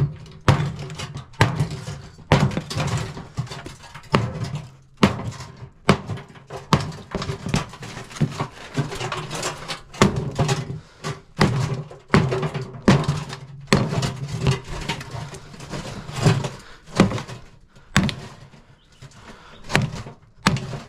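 Blunt axe striking dishwasher sheet metal again and again, tapping along a folded seam to split the stainless steel tub from the plain steel base. The knocks come unevenly, about one or two a second, each with a short metallic ring.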